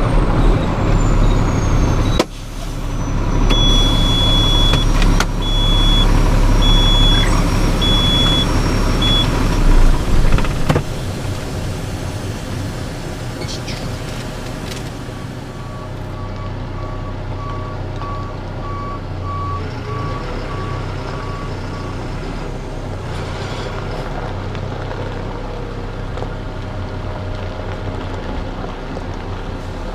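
Truck engine running with a steady rumble, loud for the first ten seconds and quieter after. Over it sound two runs of electronic warning beeps: about five high beeps a little over a second apart, then later a faster series of lower beeps, like a reversing alarm.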